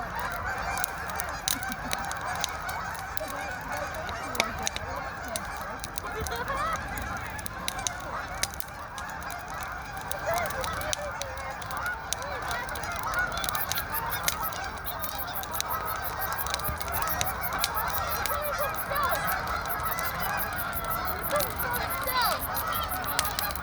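A large flock of Canada geese honking continuously, many calls overlapping. A wood fire crackles through it in sharp pops that come more thickly from about halfway through.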